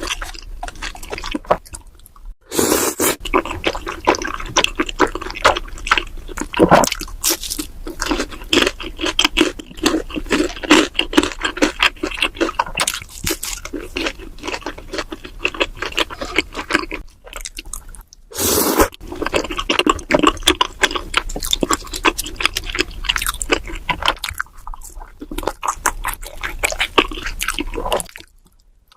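Close-miked ASMR eating sounds: wet, squishy chewing of chewy rice cakes in a creamy cheese sauce, with dense irregular mouth clicks. There are brief pauses a couple of seconds in and near the end.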